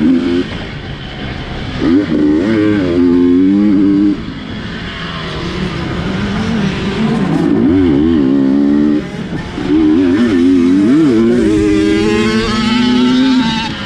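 GasGas 250 cc dirt bike engine revving hard in bursts with the throttle worked on and off, pitch rising and falling; it drops off sharply about four seconds and again about nine seconds in, then picks back up.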